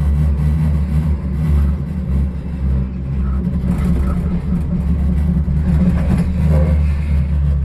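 Steady low rumble heard from inside a moving cable car cabin, the running cable car and wind on the microphone.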